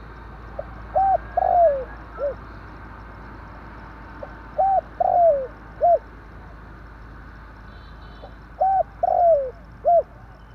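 Spotted dove (tekukur) cooing: three phrases about four seconds apart, each a short note, a longer note that falls away, and a brief closing note.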